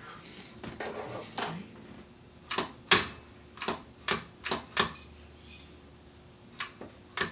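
A short hiss at the start, then a series of sharp clicks and clacks, about eight, as the wire recorder's mechanism and small parts are handled.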